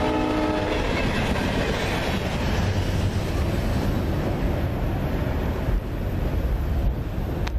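Norfolk Southern freight train's last cars rolling past, with a steady rush and rumble of wheels on rail. A train horn's chord of steady tones sounds in the first second and cuts off.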